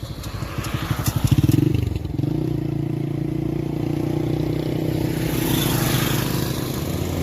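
Motorcycle engine pulling away, its pulsing note growing louder over the first two seconds, then running at a steady speed.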